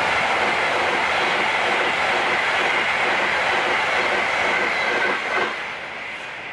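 Passenger train passing close by at speed: a loud rush of wheel and rail noise with a steady high whine, which drops off about five and a half seconds in as the last carriage goes by and fades away.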